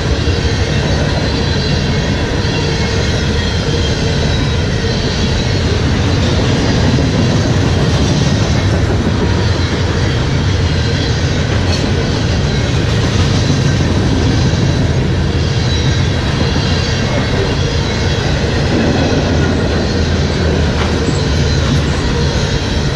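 Loaded freight cars of a CSX trash train rolling past steadily, a continuous loud rumble and rattle of wheels on the rails, with a faint high ringing from the wheels above it.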